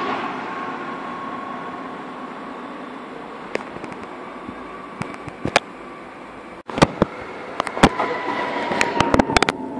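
A DB class 423 S-Bahn electric multiple unit pulling away, its motor whine and rolling noise fading as it leaves the platform. After an abrupt cut about two thirds of the way through, a run of sharp clicks and cracks sounds over the faint whine of another train approaching.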